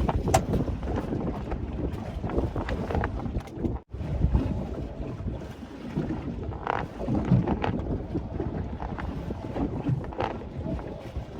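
Wind buffeting the microphone over water slapping against a small boat's hull, with scattered knocks as the boat rocks in choppy water. The sound cuts out briefly about four seconds in.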